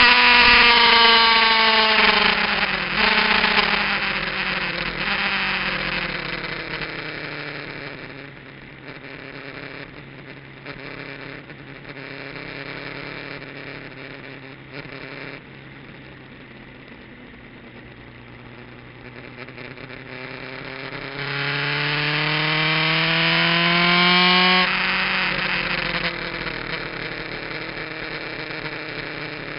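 Kawasaki GPZ900R inline-four with an aftermarket exhaust, heard from an onboard camera. Revs fall at first, with a shift about three seconds in, and the engine runs quietly at low revs through the middle. It then climbs in pitch under acceleration, drops sharply about 25 seconds in, and runs on lower and steady.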